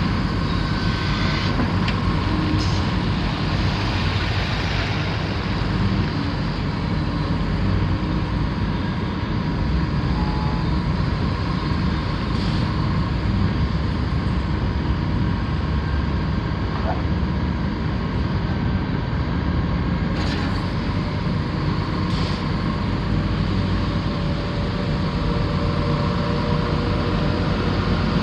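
A large diesel excavator's engine running steadily, with a constant low rumble and a steady whine, and a few faint ticks.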